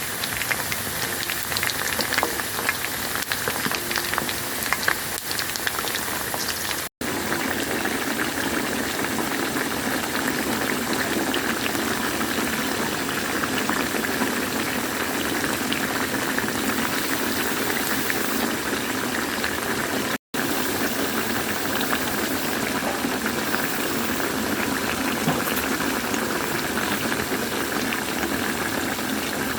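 Chicken pieces deep-frying in a wok or vat of hot oil: a steady, vigorous bubbling sizzle with small crackles, cut by two very short gaps.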